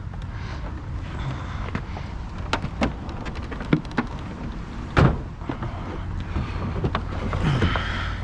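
Scrap metal being shifted and loaded on a truck: scattered sharp clanks and knocks, the loudest about five seconds in, over a steady low rumble.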